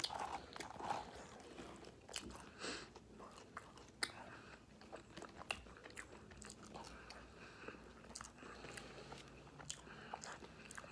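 A person chewing and biting food close to the microphone, with irregular small wet clicks and crunches from the mouth.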